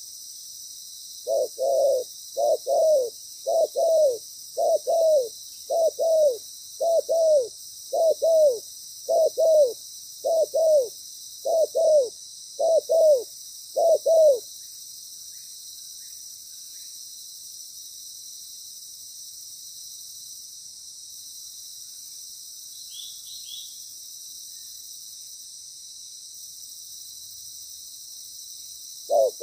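Spotted dove cooing: about a dozen paired coos in an even series over some thirteen seconds, then stopping. The coos start again near the end.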